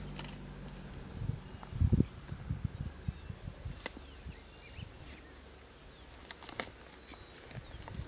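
Two thin rising whistled bird calls about four seconds apart, the second buzzier, over a continuous high, fast-pulsing insect trill. A few low thumps, the strongest about two seconds in.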